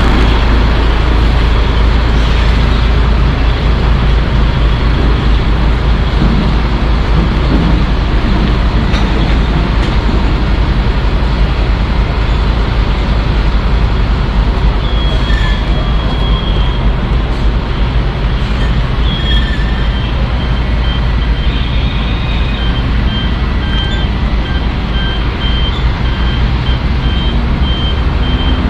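Heavy DAF truck's diesel engine running with a loud, steady low rumble. From about halfway through, short high-pitched beeps repeat over it.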